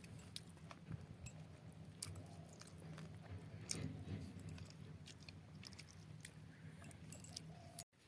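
Faint chewing and mouth sounds of a person eating a meal of fish curry, with scattered small clicks.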